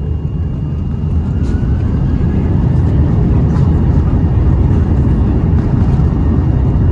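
Airbus A330 jet engines running up for takeoff: a loud, deep rumble that builds over the first couple of seconds and then holds steady at takeoff power.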